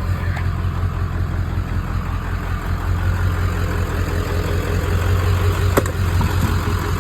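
Vehicle engine idling steadily, with a single sharp knock about six seconds in.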